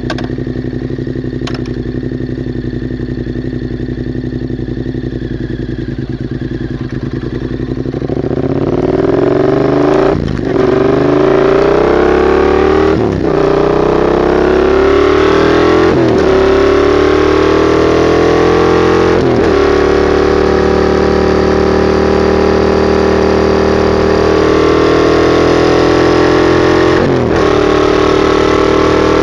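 A 2021 Yamaha MT-07's parallel-twin engine through a straight-piped Mivv GP exhaust, idling steadily, then pulling away about eight seconds in and accelerating up through the gears. The pitch climbs and drops back at each of about five shifts, then holds a steady pull.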